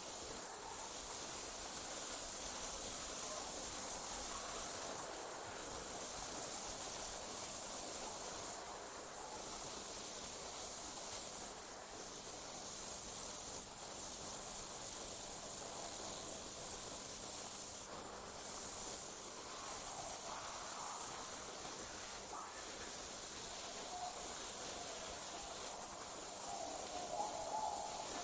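Night insects trilling in a continuous high-pitched chorus that breaks off for a moment every few seconds.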